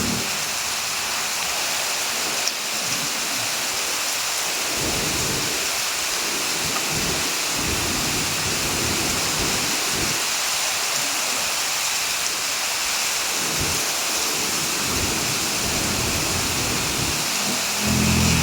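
Heavy rain falling with a steady hiss, with low rumbles coming and going underneath that swell louder near the end.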